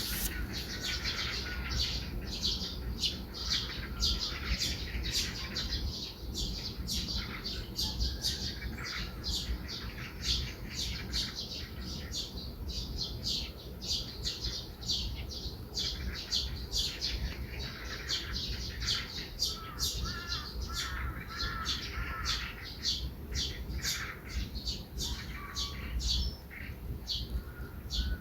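Morning birdsong: rapid, short, high chirps repeating several times a second throughout, with a burst of lower warbling calls about twenty seconds in.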